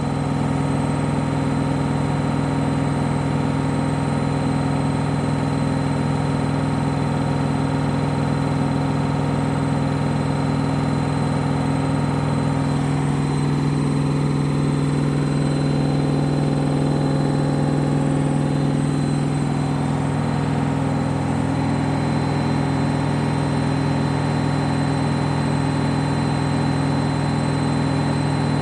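Candy washing machine's drum spinning steadily in a spin cycle, with a steady motor hum and whir. It runs quietly, and the tone shifts slightly for a few seconds midway.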